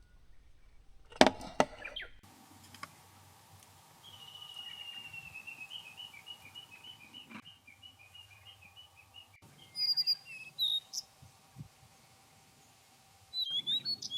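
Wild birds singing: a long run of quick, repeated notes that slowly falls in pitch, then higher, sharp calls with quick rises and falls. A few sharp knocks come about a second in.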